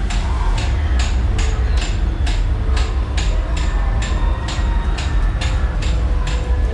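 Ghost train ride car running along its track: a deep, steady rumble with a fast, regular clicking, about four to five clicks a second.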